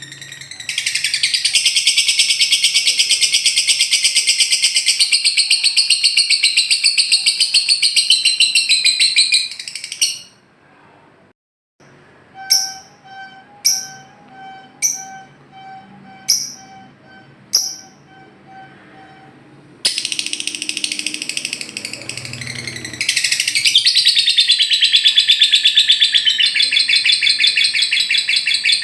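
Lovebird 'ngekek' chattering: a long unbroken run of rapid high-pitched trilling, then a pause with about six sharp single chirps roughly a second apart over a faint steady tone, then a second long run of rapid trilling.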